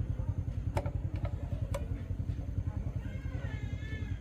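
110cc motorcycle engine idling with a steady, fast, even pulse, with two sharp clicks about one and two seconds in.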